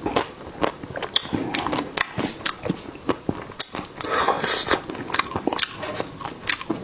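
Close-miked eating: a run of sharp bites, wet chewing and mouth clicks, with short crunchy bursts around the middle.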